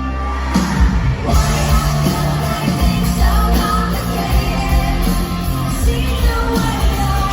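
Live rock music from a concert stage, a full band with drums playing loud through the venue's sound system; the band fills out with a heavier beat about a second and a half in.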